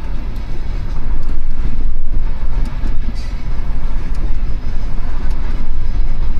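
Loaded covered hopper cars of a freight train rolling past, a steady loud rumble of steel wheels on rail with a few faint clicks.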